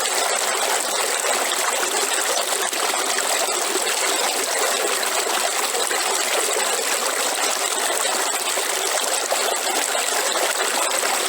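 River water running over rocks, a steady rushing and trickling with fine splashing texture.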